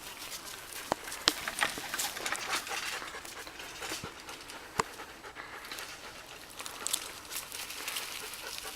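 Dog panting, with scattered sharp clicks and knocks.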